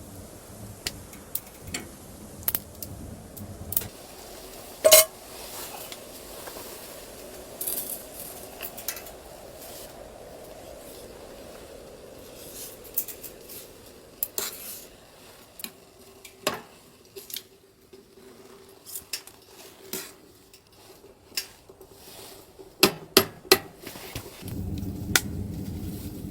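Scattered clinks and knocks of metal cookware and utensils being handled, with one loud ringing clang about five seconds in and a quick run of sharp knocks near the end.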